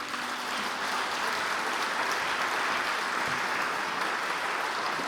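Audience applauding steadily after a song ends.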